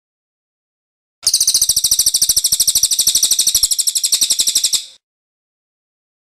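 Pygmy bushtit (cililin) giving one very rapid, high-pitched rolling trill of about three and a half seconds. It begins a little over a second in and fades out shortly before the end.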